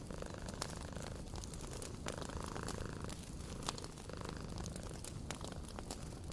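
A cat purring steadily, with scattered sharp pops and crackles from a wood fire.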